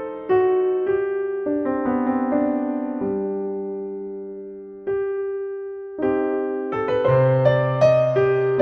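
Slow, soft piano music: gentle notes and chords that ring out and fade, with a long held chord in the middle and a fuller passage near the end.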